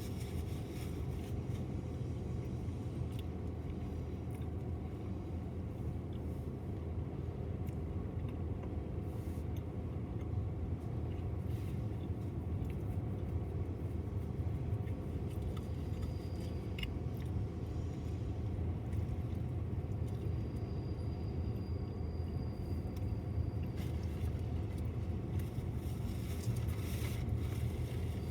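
BNSF intermodal freight train rolling by: a steady low rumble with a few faint clicks.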